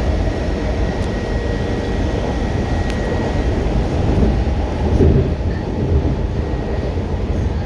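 Washington Metro railcar running at speed on elevated track, heard from inside the car: a steady rumble of wheels and running gear, with a faint high whine over the first few seconds and a brief swell about five seconds in.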